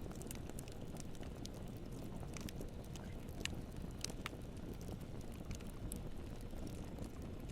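Campfire burning: a steady low rush of flame, with scattered sharp crackles and pops from the burning wood, two of the loudest pops coming near the middle.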